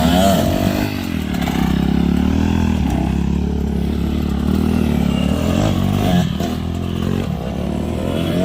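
Dirt bike engines on a motocross track, revving up and down as riders go round, the pitch rising and falling several times.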